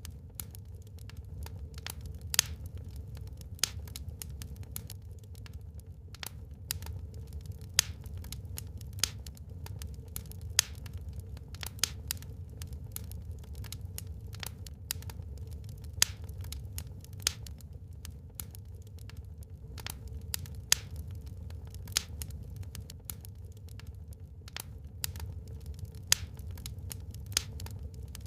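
Burning wood crackling in a fireplace: irregular sharp pops and snaps, a few of them louder, over a steady low rumble.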